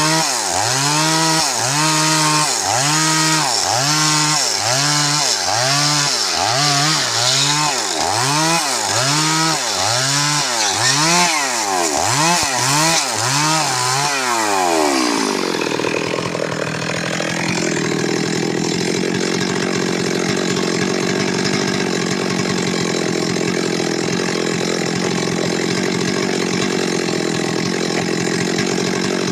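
Stihl MS382 two-stroke chainsaw. For about the first fifteen seconds its engine note rises and falls about once a second; then it switches to a steady, even note for the rest.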